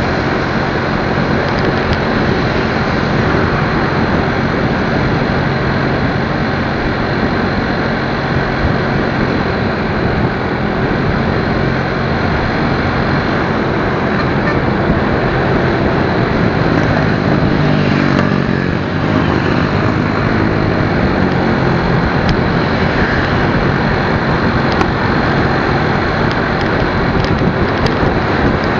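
Motorcycle riding on the road: a steady engine hum under loud, even wind and road noise.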